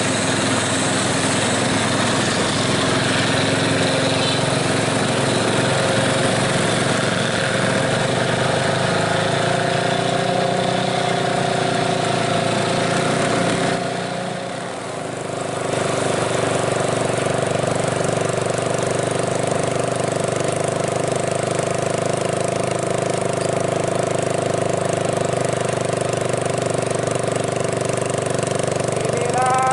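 Diesel engine of a Nissan Euro truck loaded to 22 tonnes, running steadily under heavy load on a steep uphill climb, dipping briefly about halfway through before picking up again.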